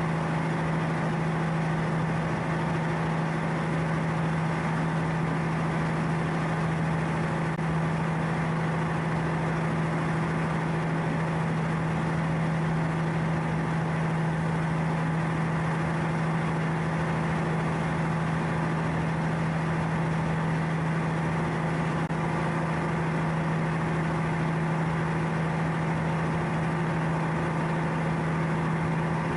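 A boat's engine running steadily, a constant drone with one strong low hum.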